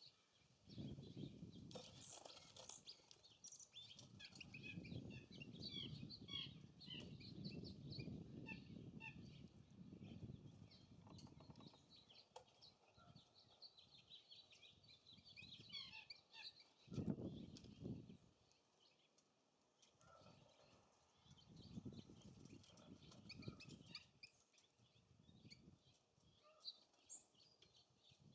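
Small songbirds chirping and calling in a rapid, busy chatter, with gusts of wind buffeting the microphone in low rumbling surges, the strongest gust about two-thirds of the way through.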